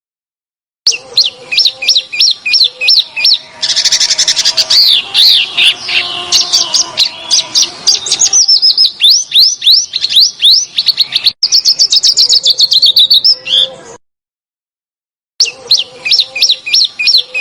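Songbird song from a masteran training track: a rapid string of sharp, high, down-slurred notes, then a dense burst of harsh chattering, then more quick notes and a sustained warbling run. The recording cuts to dead silence about 14 s in and the same phrase sequence starts over, as in an edited loop.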